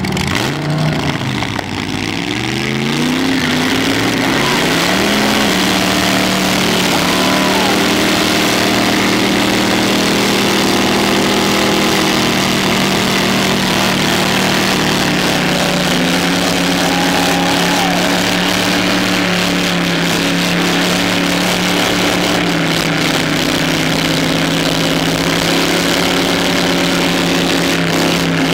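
Rat rod's open-header engine revving up over the first few seconds, then held at high revs in a long, steady burnout with the rear tyres spinning on the pavement; the pitch dips slightly about halfway through.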